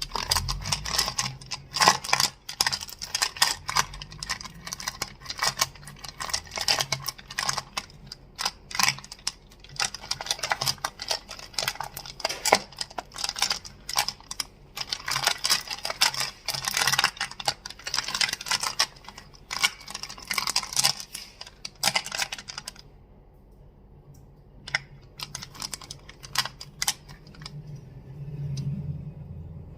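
Crystals clicking and clacking against each other in quick, dense taps. After about twenty-two seconds the taps thin out to occasional, quieter clicks.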